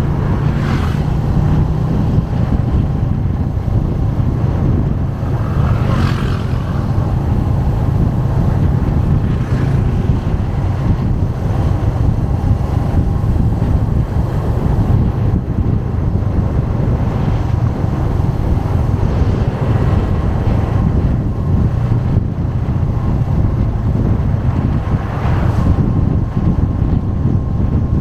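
Motorcycle engine running steadily while riding, a continuous low rumble, with a few short rushes of noise along the way.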